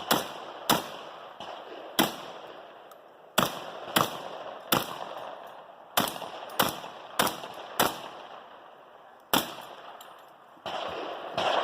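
Rock Island Armory VR-80 semi-automatic 12-gauge shotgun firing about eleven shots at an uneven pace. Most shots come half a second to a second apart, with pauses of a second or more between groups. A short stretch of noise follows near the end.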